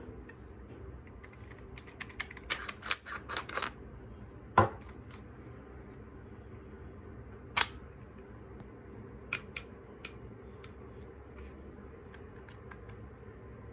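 Small hard objects being handled during the unboxing of a manual coffee grinder: a quick run of light clicks, then a few separate sharp knocks and ticks, with no grinding.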